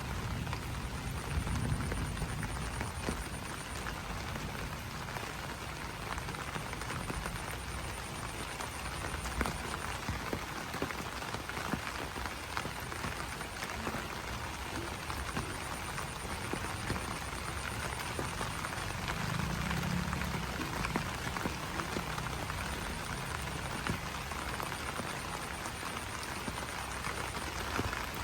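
Steady rain falling on banana leaves: an even patter full of sharp individual drop-hits. A thin, high buzzing trill comes and goes several times over it, and a low rumble swells up near the start and again in the middle.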